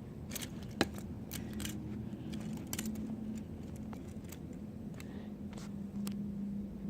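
Scattered light clicks and taps from a small plastic toy engine being handled, over a faint steady hum.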